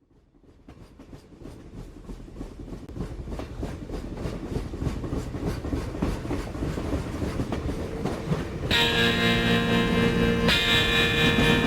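A train running on rails fades in from silence, its wheels clacking in a steady rhythm and growing louder. About nine seconds in, music with sustained chords comes in over it.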